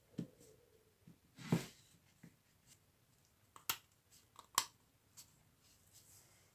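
Small tool parts being handled and fitted by hand: a handful of separate knocks and sharp clicks, the first followed by a short ringing tone. No motor is running.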